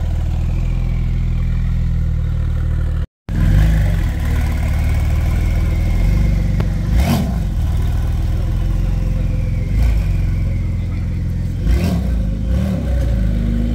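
Gemballa Marsien's twin-turbo flat-six running at low speed as the car rolls off, a deep steady rumble broken by three short sharp pops. The sound cuts out briefly about three seconds in.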